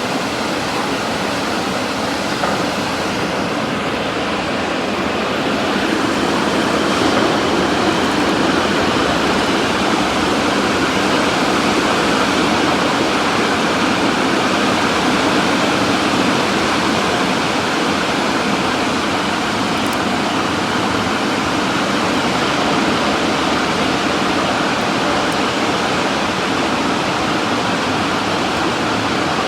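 Steady rushing noise of a Sonny's car wash tunnel's equipment at work, getting slightly louder after about six seconds.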